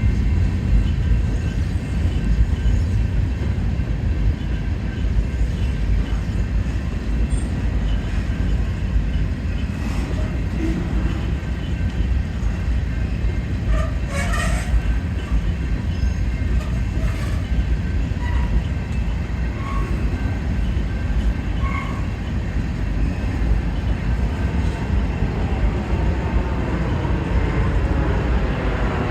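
Freight cars of a long manifest train rolling slowly past, with a steady low rumble of steel wheels on the rails. Short metallic squeaks and clicks come and go, most of them about halfway through.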